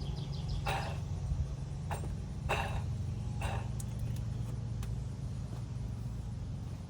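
Worn water pump bearing from a 2020 Toyota Sienna rattling and grinding in several short bursts as the removed pump's pulley is turned by hand, over a steady low hum. This rattle is the noise the van was making, and it comes from the worn bearing.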